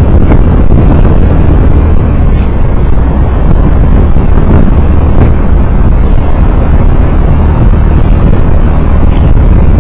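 Steady, loud low rumble of a road vehicle on the move, picked up by an onboard driving recorder: engine, tyre and wind noise with no distinct events.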